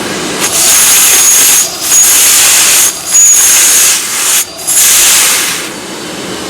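Miele Blizzard CX1 bagless vacuum cleaner running at maximum suction, with four loud rushes of hissing air, each about a second long with short breaks between, as a hand is held against the suction opening.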